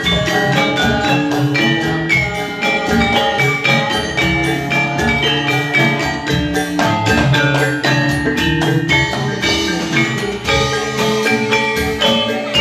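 Javanese gamelan music accompanying a jathilan dance: struck bronze metallophones ring out over a rapid, steady beat, with no singing.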